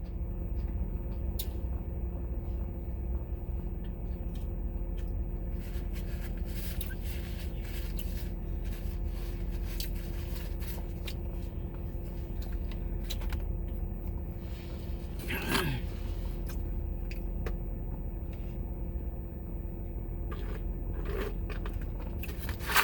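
Crunching and clicking of someone eating fried food and handling its packaging, scattered short sounds over a steady low hum.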